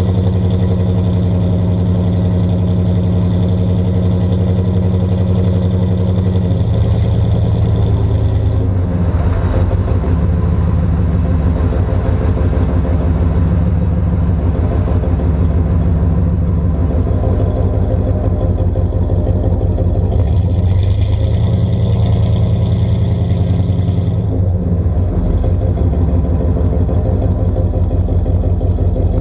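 A 1992 Chevy 3500 pickup's 5.7-litre 350 V8 running through a new cat-delete exhaust while driving under load. The engine note changes pitch several times, about a quarter of the way in and again about three quarters of the way through.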